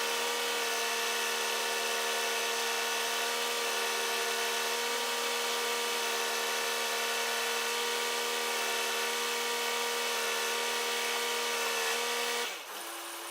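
Crane truck's engine and hydraulics running with a steady machine whine. Near the end the whine drops away to a quieter steady hum.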